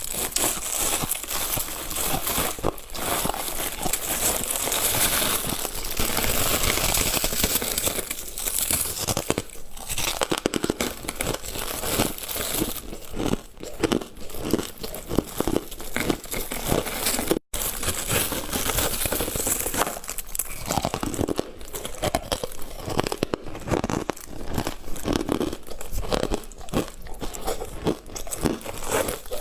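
Close-miked biting and chewing of refrozen freezer frost with hard ice inside: dense, irregular crunching and crackling, broken by a momentary dropout about seventeen seconds in.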